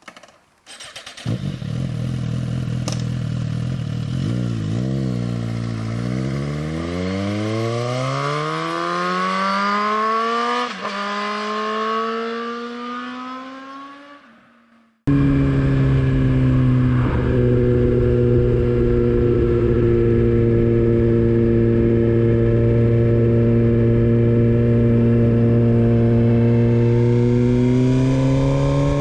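Motorcycle engine accelerating, its pitch climbing through the gears with a brief drop at a gear change, then fading away. After an abrupt cut the engine holds a steady note while cruising, rising slightly near the end.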